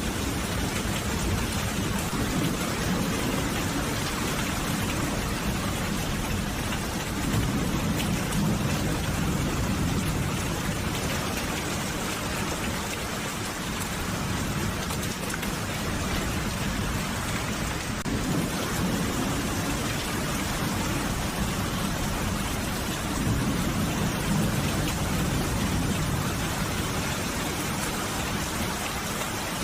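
Steady rain falling and pattering on surfaces. A low rumble of distant thunder swells up twice, about a quarter of the way in and again past the middle.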